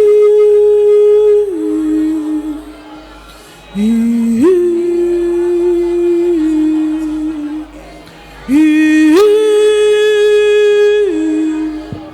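A woman's voice humming long wordless held notes in three phrases. Each slides up into its note and steps down a little before fading, with soft backing music underneath.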